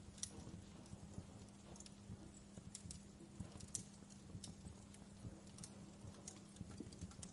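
Wood fire crackling in a fireplace: faint, irregular pops and snaps, several a second, over a soft hiss, with a steady low hum underneath.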